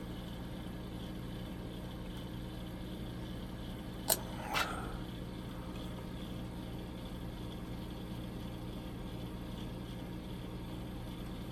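A steady low hum throughout, with two short sharp clicks about half a second apart some four seconds in, from small plastic model-kit parts being handled and fitted together.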